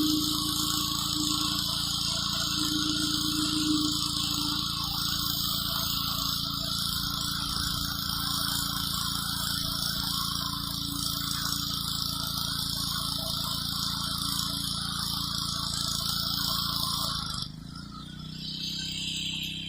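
Gas-engine pressure washer running under load with its high-pressure water jet hissing steadily; about seventeen seconds in the spray cuts off and the engine note drops, settling into quieter steady running.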